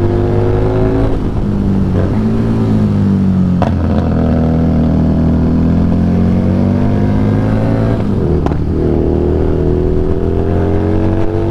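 Harley-Davidson Street Rod 750's V-twin engine running under way. Its pitch climbs and drops several times, with short breaks in the note about a second in, near four seconds and again about eight seconds in.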